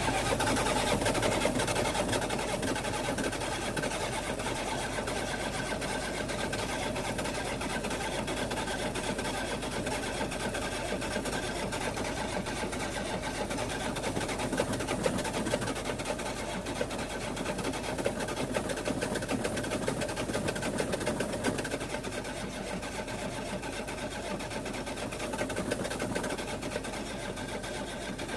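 An engine turning over with a steady, fast, even mechanical clatter that holds without a break.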